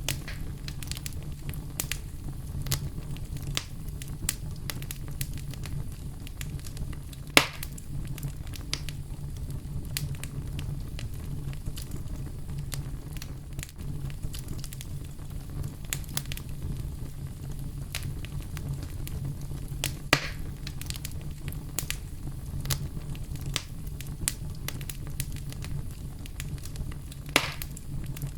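Campfire burning, with a steady low rumble and continual small wood crackles, and three louder pops spread through.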